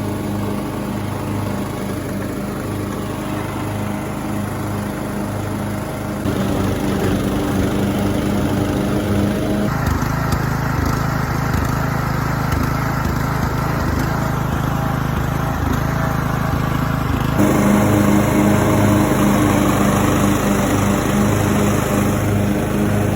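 Tractor engine running steadily while mowing hay, with an even, pulsing hum; the sound shifts abruptly three times.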